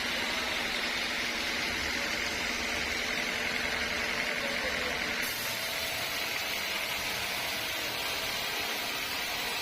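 Sawmill machinery running with a steady mechanical noise; the sound changes abruptly about five seconds in.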